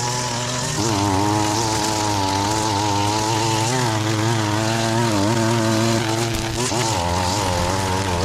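Small gas engine of a handheld outdoor power tool running at high revs, its pitch stepping up about a second in and wavering as it works, then shifting near the end.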